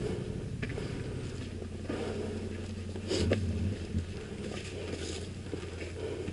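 Yamaha Ténéré 700's parallel-twin engine running steadily at low revs on an off-road trail, getting louder for a moment about three seconds in, with scattered clicks and knocks over it.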